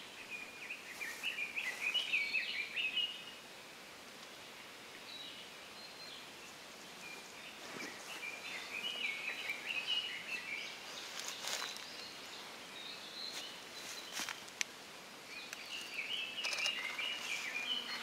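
A bird calls in quick, jumbled chattering phrases, three bouts in all, over steady woodland hiss. A few isolated sharp taps come between the second and third bouts.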